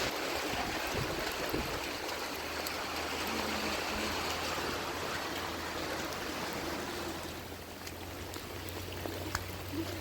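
Steady rushing of running water, like a flowing stream, over a low steady hum.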